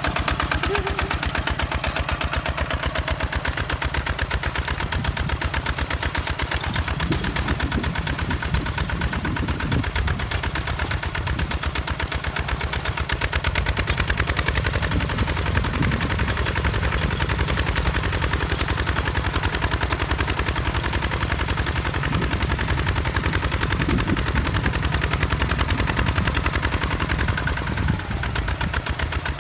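Walk-behind tractor's single-cylinder diesel engine running steadily with a rapid, even chugging, dipping briefly near the end.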